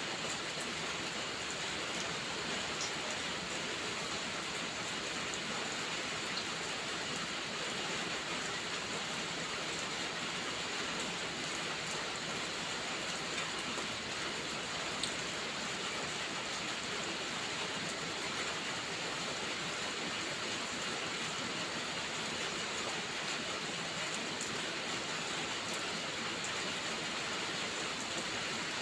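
Steady heavy rain, an even unbroken hiss, with a few faint clicks here and there.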